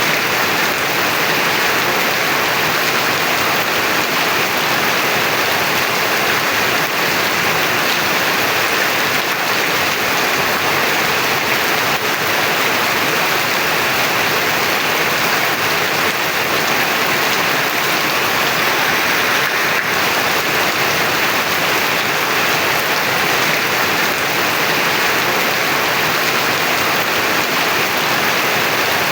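Heavy rain pouring down as a dense, steady hiss that does not let up.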